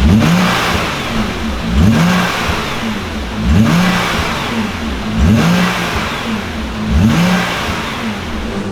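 Nissan GT-R R35's twin-turbo V6 engine being free-revved five times, about every second and a half to two seconds: each blip rises in pitch, then falls back toward idle.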